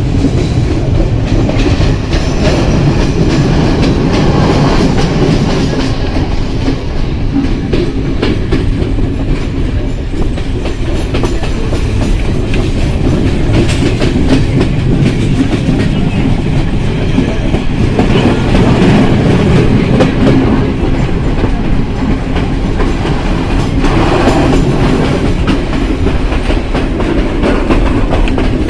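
Passenger train running along the line: a steady, loud rumble with the clatter of wheels knocking over rail joints.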